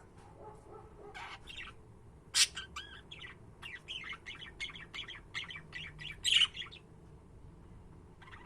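Budgerigars chirping: a quick run of short chirps and warbles with a couple of sharper, louder squawks, stopping about two-thirds of the way in.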